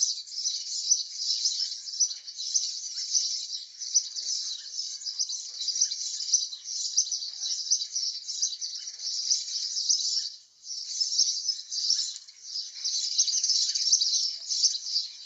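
Dense, continuous high-pitched chirping, bird-like, with a short drop about ten seconds in.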